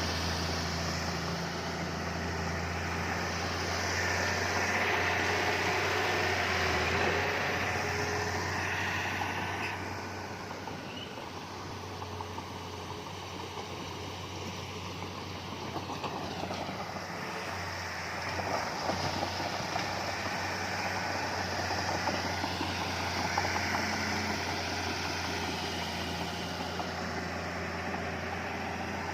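Heavy diesel engine of earthmoving machinery running with a steady low hum, its loudness swelling and easing as it works: louder from about four to eight seconds in, quieter for a while after ten seconds, then building again.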